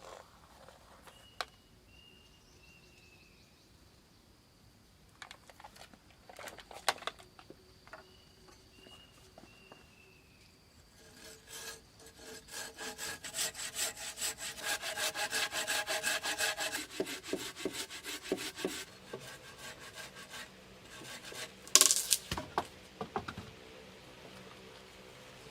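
Hand saw cutting wood: a steady run of quick back-and-forth strokes for several seconds from about halfway through, after a few scattered wooden knocks, with one sharp knock near the end.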